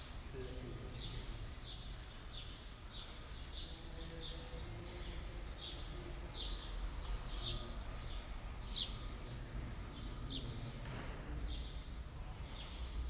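A small bird chirping over and over: short, high, falling chirps about once or twice a second, over a low steady hum of room noise.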